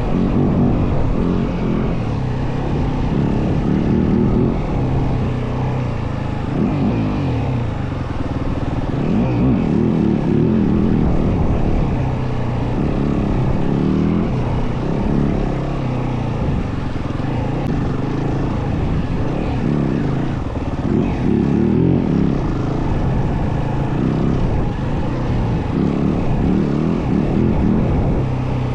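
Yamaha WR450F dirt bike's single-cylinder four-stroke engine running under way, its revs rising and falling as the throttle is worked.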